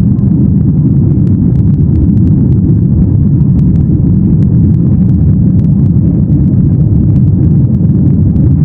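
Steady, loud cabin rumble of a Boeing 737-800 in flight, heard from a rear window seat: deep engine and airflow noise with faint light rattles now and then.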